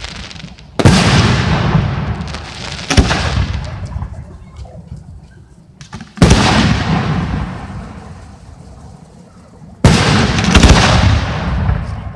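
Aerial firework shells bursting: four loud booms a few seconds apart, each followed by a long rolling rumble that fades away.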